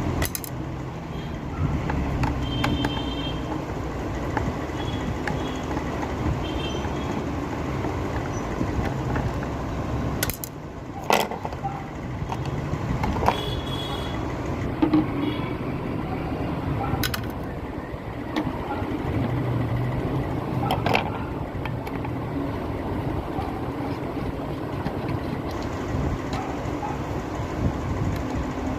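Steady low rumble with a few sharp clicks and knocks scattered through it.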